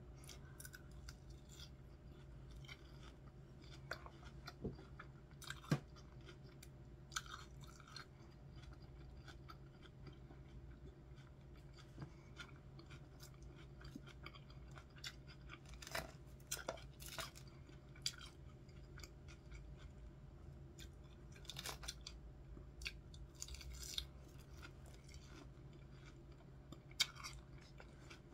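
A person chewing a chicken ranch salad of iceberg lettuce, chicken strips and bacon bits. It comes through as faint, irregular crunches and mouth clicks over a steady low hum.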